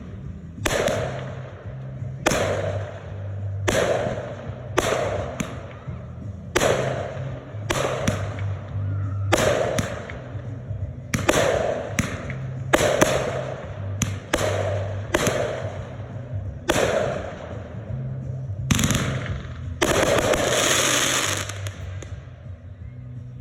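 Aerial fireworks bursting in quick succession, about one sharp bang a second, each with a short echoing tail, and a longer crackling burst near the end.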